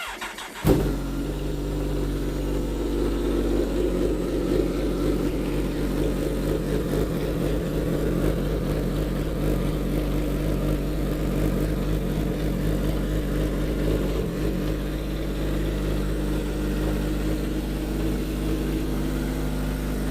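Kawasaki ZX-14R's inline-four engine starting up, catching under a second in, then running at a steady idle.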